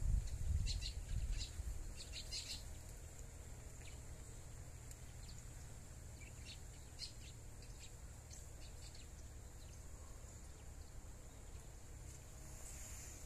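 Small songbirds giving short, high chirps at scattered moments, in a cluster in the first couple of seconds and again near the middle. A low rumble at the start fades out within about two seconds.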